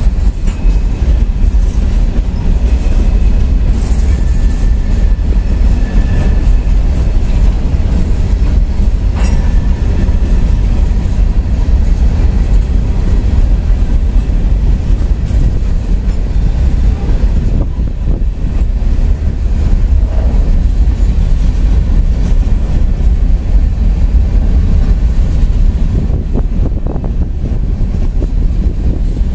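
CSX freight train of coal hopper cars rolling past at close range: a loud, steady rumble of steel wheels on the rails with clickety-clack over the rail joints. A faint thin wheel squeal comes and goes in the first several seconds.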